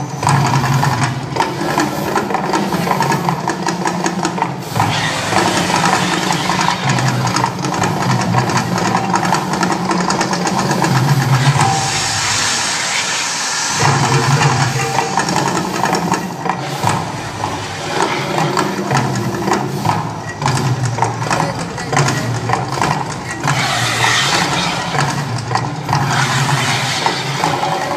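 Mirage volcano attraction erupting: a loud, continuous low rhythmic rumble, with surges of hissing, about twelve seconds in and again about twenty-four seconds in.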